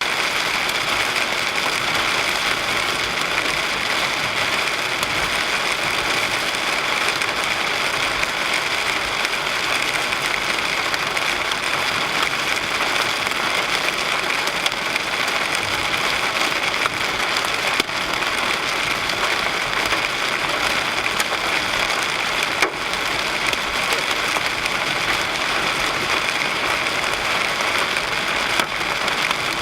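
Steady rushing noise inside a car: engine and road noise with rain on the body, and a few sharp ticks scattered through it.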